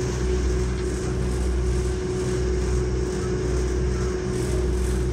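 Steady running noise of a diesel passenger train at speed, heard from inside the carriage: a low rumble with one steady tone running through it.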